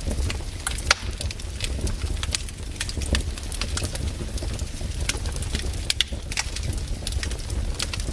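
Wood campfire burning, with irregular sharp crackles and pops several times a second over a steady low rumble of the flames.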